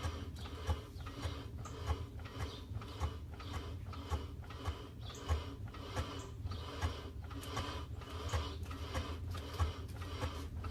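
Driveline of a 1991 BMW 318is clunking from underneath the car, a sharp knock repeating about twice a second over a steady low rumble. The owner does not think it is the guibo (flex disc) and suspects it may be a very bad driveshaft center bearing.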